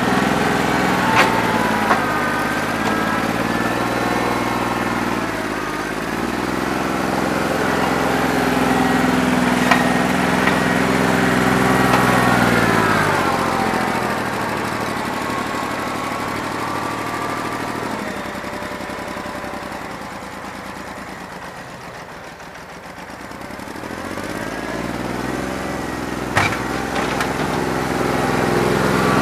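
New Holland 1320 compact tractor's three-cylinder diesel running with its speed rising and falling, misfiring on a bad injector so that it runs on only about two and a half cylinders. The engine sound fades down through the middle and comes back up near the end, with a few sharp clicks.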